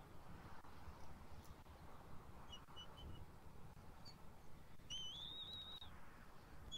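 Faint high bird chirps: a few short chirps, then a thin whistled call that rises and wavers for about a second, over a low steady rumble.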